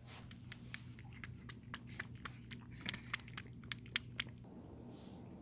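A cat lapping and eating a watery treat from a dish: an irregular run of small wet clicks, several a second, that stops about four and a half seconds in.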